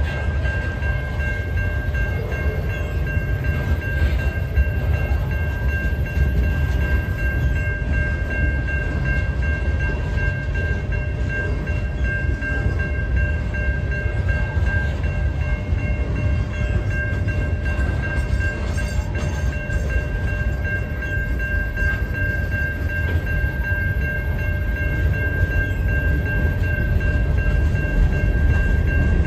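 Freight cars of a manifest train rolling past at a grade crossing: centerbeam lumber flatcars, then a tank car, making a steady low rumble of wheels on rail. Over it, the crossing's warning bell rings without a break.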